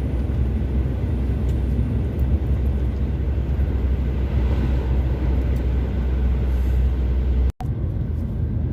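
Steady drone of a truck's engine and road noise heard inside the cab while driving. It cuts out for a split second near the end, then resumes with less low rumble.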